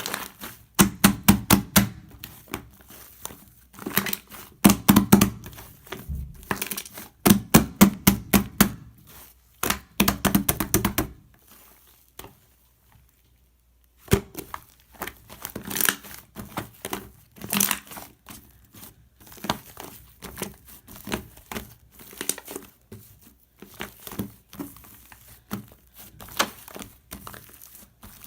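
Shaving-foam slime being squeezed and stretched by hand, giving bursts of rapid crackling clicks. The crackling stops for about two seconds near the middle, then starts again.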